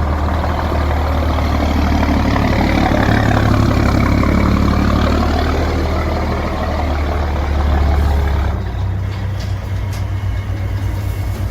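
Scania truck engine with a straight-through exhaust, running loud with a deep rumble; its pitch rises and falls around the middle, then drops back after about eight seconds to a lower, pulsing rumble.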